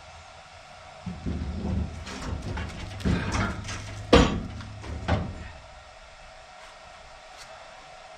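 A heavy steel engine hoist being manhandled into place: a run of scraping and clunking for a few seconds, with one sharp loud knock about four seconds in.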